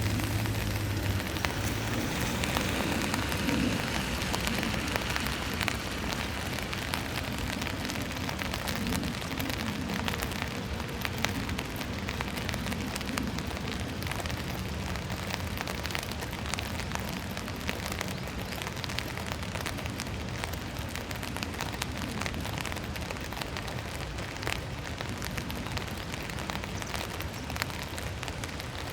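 Heavy typhoon rain pattering steadily on a hard surface: a dense, even patter of countless drop impacts, with some low rumbling in the first few seconds.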